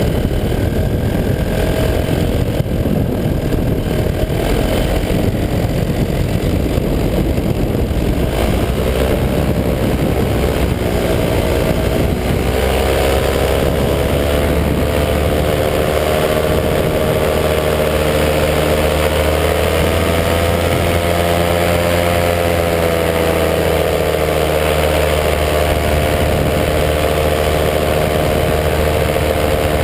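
185 cc EcXtreme paramotor engine and propeller running steadily in flight, its pitch slowly wavering up and down with the throttle. The first several seconds are rougher and noisier before the engine note comes through clearly.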